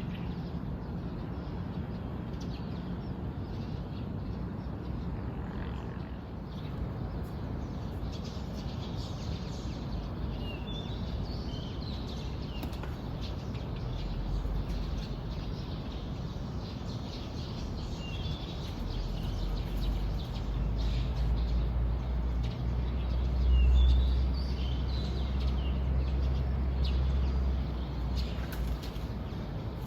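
Small birds chirping in short, high, scattered calls, over a steady low rumble that grows louder in the second half.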